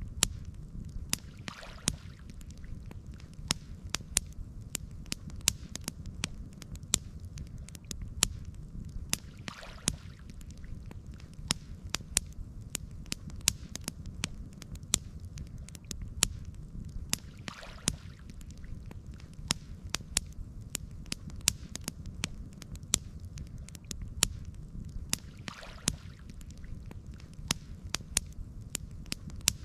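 Wood campfire crackling, with frequent sharp pops over a steady low rumble. A soft whoosh returns about every eight seconds.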